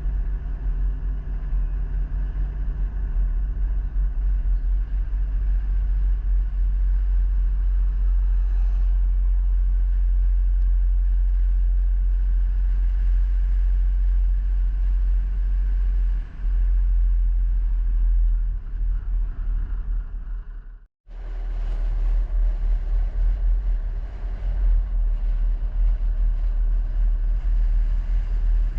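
A road vehicle driving, a steady low rumble of engine and road noise. It cuts out abruptly for a moment about three quarters of the way through, then carries on.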